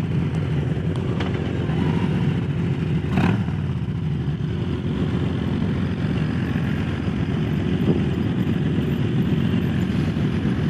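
Harley-Davidson Low Rider S's Milwaukee-Eight 117 V-twin running steadily under way, heard from the rider's seat.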